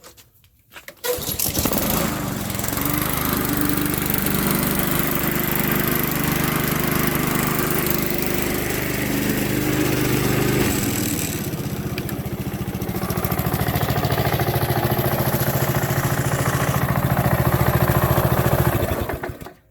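Honda HRX217 lawn mower's 190cc engine on a cold start: it catches from a pull about a second in and then runs steadily. The sound changes about halfway through, and the engine cuts out suddenly near the end when it is switched off.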